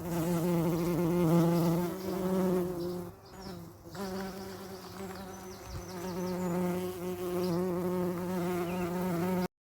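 Bees buzzing: a steady, slightly wavering drone that dips briefly about three seconds in, returns, and cuts off abruptly near the end.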